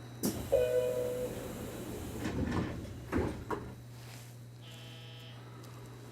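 Nishitetsu commuter train's sliding doors closing. A sharp knock and a short tone come first, then a few thumps as the doors shut, and a brief buzz near the end, over the car's steady low hum.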